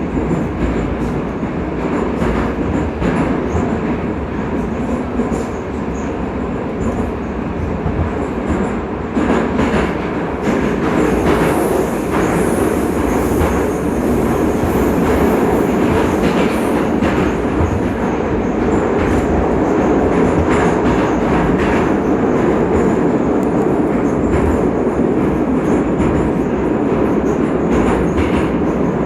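St. Petersburg Metro 81-722 series train running through the tunnel, heard from inside the car: a steady rumble with wheels clicking over the rails, louder from about ten seconds in.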